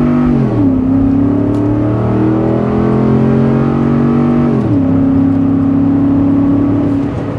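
A 2011 Ford F-150's 5.0 V8 (Coyote) accelerates at full throttle through a Magnaflow single-in dual-out muffler, heard from inside the cab. The engine note climbs, drops at an automatic upshift about half a second in, climbs again and drops at a second upshift near five seconds, then holds steady and eases off near the end.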